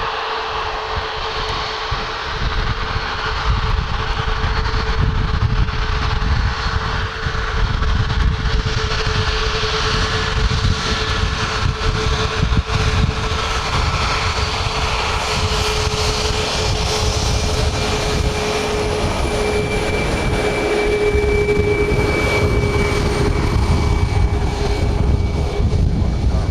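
Boeing 737 MAX 8's CFM LEAP-1B turbofan engines running: a steady whine over a low rumble and hiss that grows somewhat louder a few seconds in.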